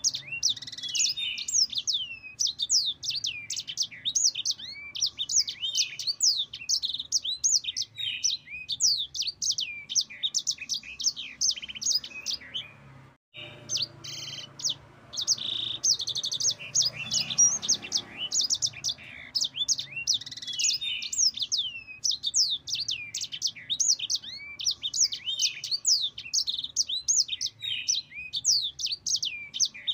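Yellow-fronted canary (Sanger / Mozambique canary) singing a long, fast rolling song of quick rising and falling chirps, broken by a brief pause about 13 seconds in.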